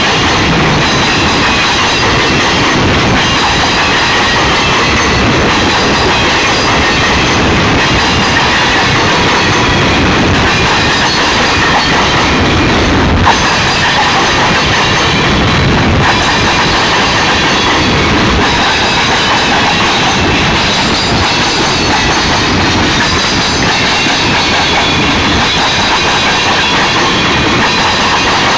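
Union Pacific freight train cars rolling past close by in a steady, loud rush of steel wheels on rail, with a faint high wheel squeal and a single sharp clank about halfway through.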